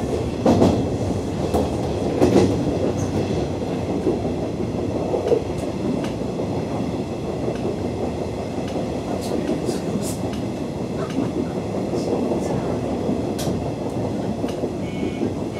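Nishitetsu 2000 series electric train running, heard from behind the driver's cab: a steady rumble of wheels on rail with scattered clicks. Near the end a ringing tone starts, pulsing on and off about twice a second.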